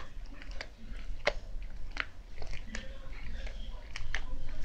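Slime being squeezed and poked by hand, giving irregular wet clicks and pops, a few a second.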